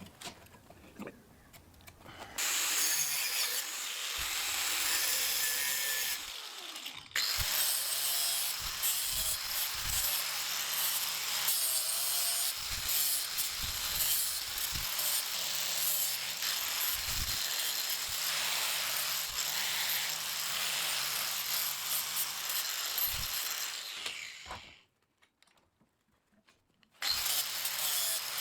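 Angle grinder grinding steel in long continuous runs. It stops briefly about seven seconds in, cuts off suddenly for about two seconds near the end, then starts again.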